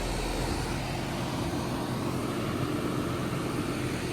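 Steady machine running noise: an even rushing sound with a low, constant hum.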